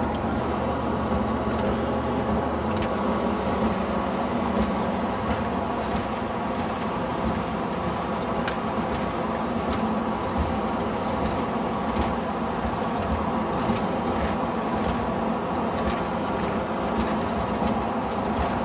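A road vehicle driving: steady engine and road noise with a constant hum.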